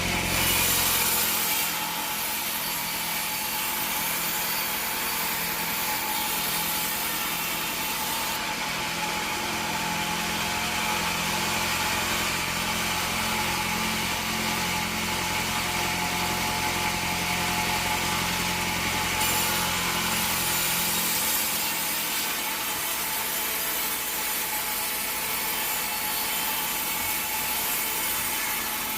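Bandsaw sawmill blade cutting steadily through a teak log, with the mill's motor running underneath.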